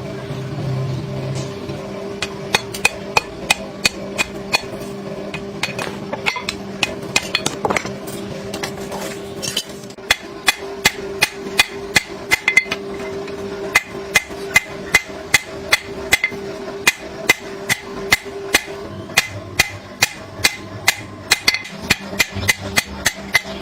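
Hammer repeatedly striking the steel of a truck bearing being worked into a knife blade, with sharp ringing metal-on-metal blows. The blows are slower at first, then settle into a steady rhythm of about two to three a second, over a steady low hum.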